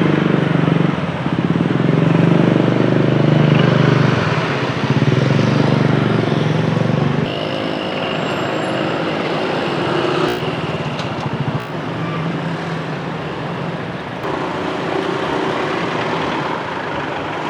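Motorcycle engines in street traffic. One runs loud and close for the first seven seconds or so, then gives way to a steadier mix of passing motorbikes and cars.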